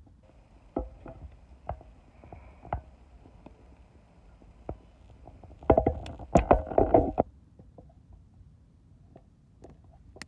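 Pieces of firewood knocking together as they are handled: a few separate knocks, then a burst of clattering about six seconds in.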